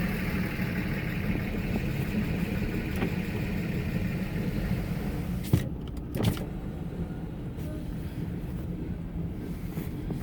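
Steady low rumble of a long freight train rolling past, heard from inside a stopped car, with two sharp knocks a little over halfway through.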